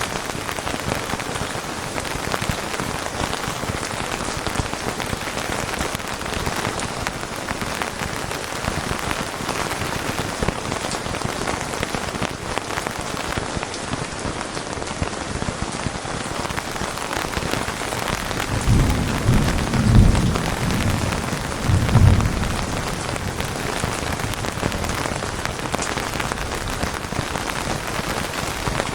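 Steady rain falling, an even hiss of drops. About two-thirds of the way through, a low rumble of thunder rolls for a few seconds, swelling twice before fading back under the rain.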